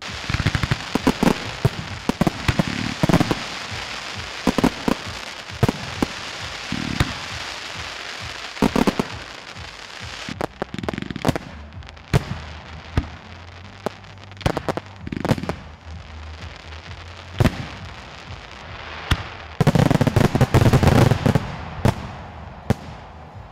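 Fireworks and firecrackers going off: many sharp bangs at irregular intervals over a continuous crackle and hiss, with a dense, loud cluster of bangs near the end.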